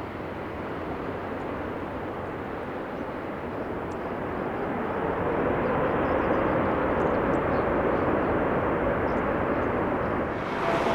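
Jet airliner engine noise: a broad rumble that grows louder about halfway through, with a faint rising tone, and higher engine whine tones coming in near the end as the aircraft draws nearer.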